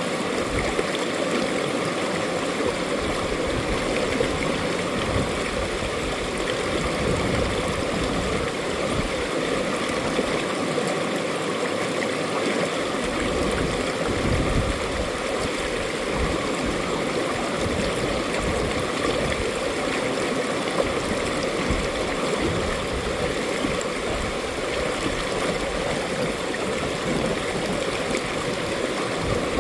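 Mountain valley stream flowing, a steady even rush of running water.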